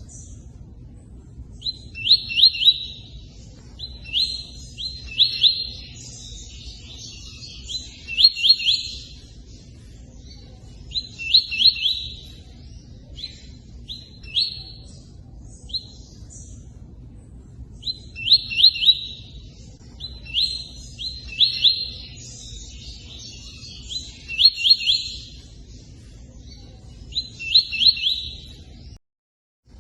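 Tui-tui song, short sharp chirping notes in quick clusters repeated every two to three seconds with pauses between. Beneath it runs a steady low rush of running water. The sound cuts out for under a second near the end.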